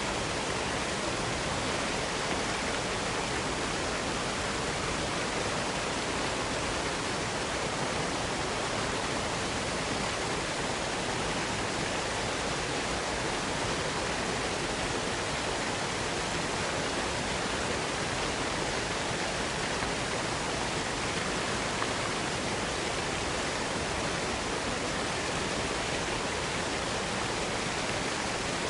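Waterfall cascade: a steady, even rush of falling water.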